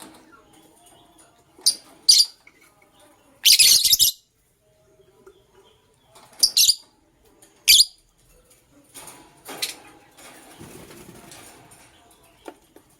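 Pet lovebirds chirping in short, sharp, high calls, with one louder, harsher burst about three and a half seconds in. A softer stretch of rustling or wing-fluttering follows after about nine seconds.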